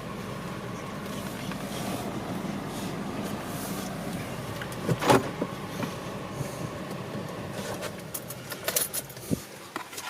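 Car engine idling with a steady low hum, then falling away about eight seconds in as it is shut off. A sharp knock comes about five seconds in, and a few clicks and rattles follow near the end.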